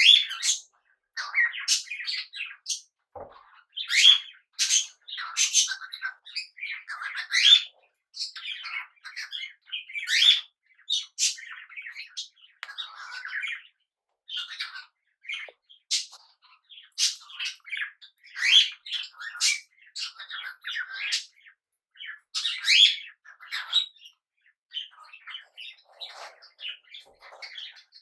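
Pet budgies and cockatiels chirping and squawking in a continuous, irregular string of short, high calls.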